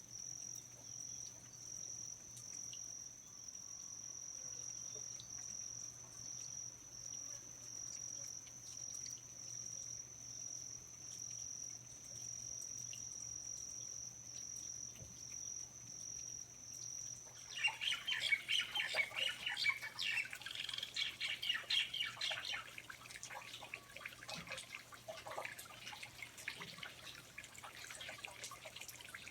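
A steady, high-pitched insect trill, cricket-like, that cuts off abruptly about two-thirds of the way through. Birds chirping busily then take over, with scattered drips and clicks.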